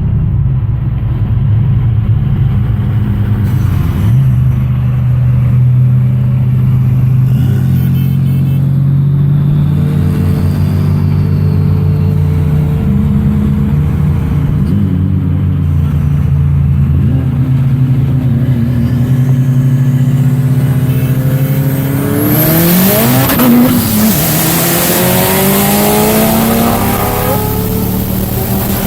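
Turbocharged performance car engine running at a steady pitch, then revving up hard about 22 seconds in, its note climbing under full acceleration with a loud rushing noise.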